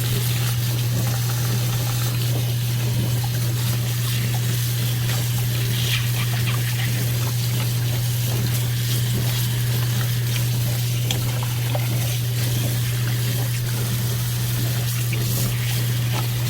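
Water running steadily from a kitchen tap, with a constant low hum underneath.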